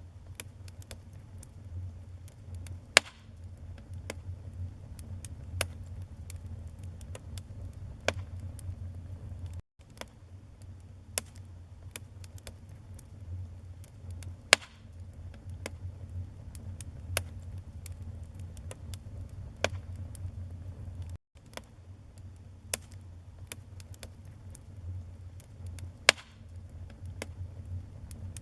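Wood fire burning in a fireplace: a steady low rumble of flames with scattered crackles and three sharp pops from the burning logs. The sound cuts out for an instant twice.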